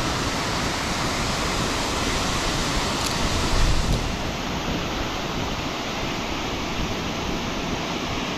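Steady rushing of fast-flowing creek water below a dam, an even wash of noise, with a brief low buffeting swell about three and a half seconds in.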